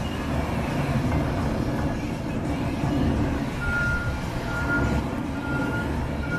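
Case tractor's engine running steadily, with its reversing alarm starting a little past halfway and beeping about once a second as the machine backs up.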